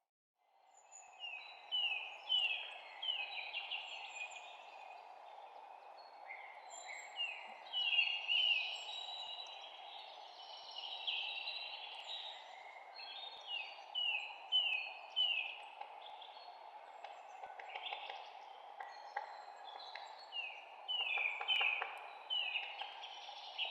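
Several birds chirping and singing in a dense chorus of short, repeated notes, many of them falling in pitch, over a steady background hiss. The sound dips out briefly at the very start and fades back in.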